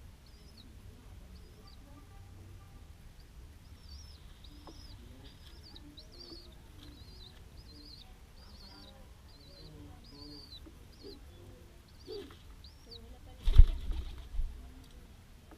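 A dove's wings flapping in a sudden loud burst near the end, over a run of repeated high, thin bird chirps, one or two each second.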